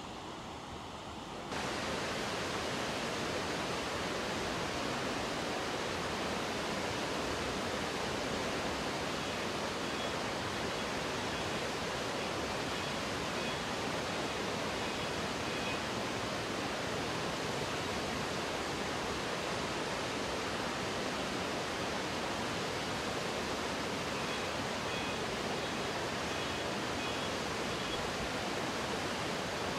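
Steady rushing noise of fast-flowing water, stepping up louder about a second and a half in.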